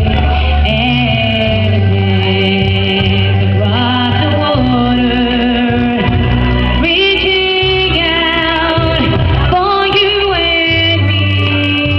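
Loud live music: a woman singing over a backing band with a steady bass line.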